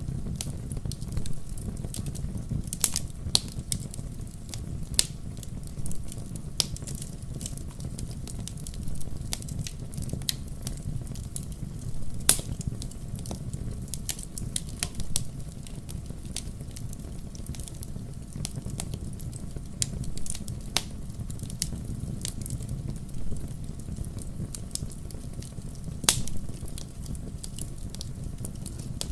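Wood campfire crackling: irregular sharp pops and snaps over a steady low rush of flames, with a few louder pops scattered through.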